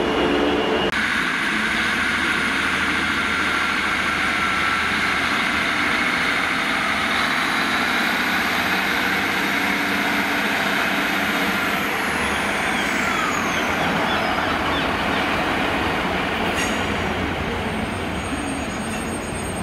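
Class 150 diesel multiple unit running past close by and pulling away, its diesel engine running with wheel and rail noise. A whine falls in pitch as it goes by, and the sound eases slightly near the end.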